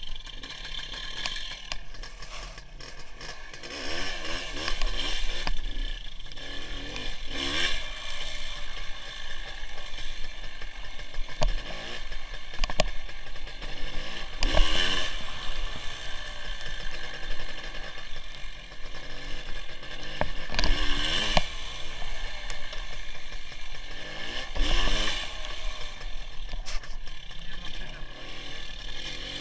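WSK 175 motorcycle's single-cylinder two-stroke engine running under way, its pitch rising and falling several times as the rider accelerates and eases off, over a steady rush of wind on the onboard camera.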